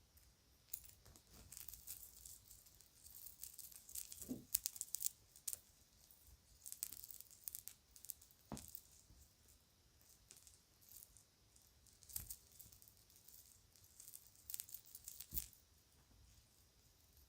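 Faint crinkling of a bag and light clicking and rattling of children's jewelry being handled, in irregular bursts with quiet gaps between.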